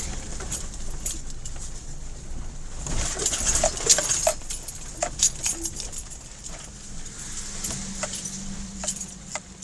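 Car driving on a snow-covered road, heard from inside the cabin: a low road rumble under many sharp, jingling clicks and rattles, busiest about three to five seconds in.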